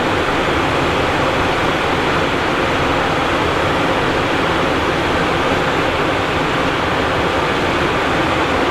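Steady rushing cockpit noise of a Cessna Citation Encore business jet in flight: airflow over the airframe mixed with the drone of its turbofan engines, unchanging, with a faint steady hum underneath.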